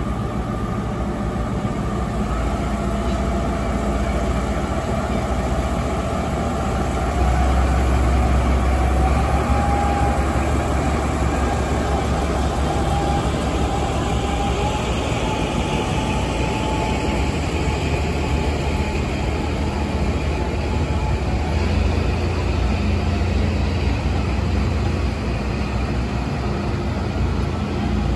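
A JR Kyushu DE10 diesel-hydraulic locomotive hauls passenger coaches past. Its engine gives a steady low rumble under the noise of the wheels on the rails. The rumble swells twice, and there is a faint whine during the first half.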